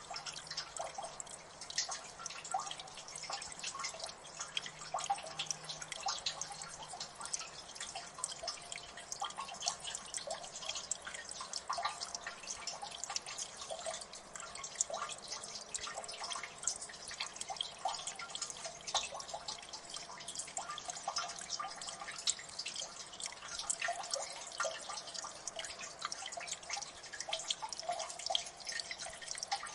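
Water drips falling in a gully: many small irregular drops plinking in quick succession over a faint hiss of water.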